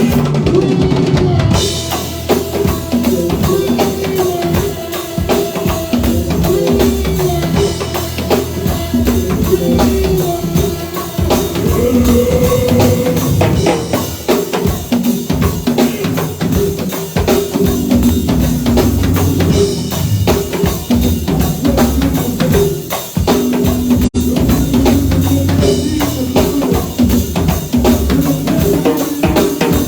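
Live band playing instrumental music, a drum kit keeping a steady beat under a melody and a bass line.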